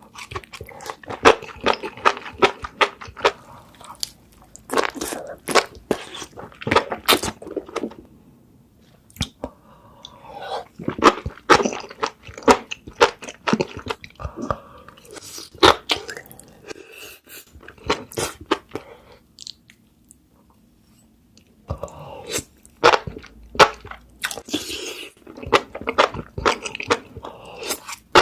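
Close-miked chewing of spicy enoki mushrooms: a dense run of crunching clicks, broken by a pause of about two seconds about two-thirds of the way in.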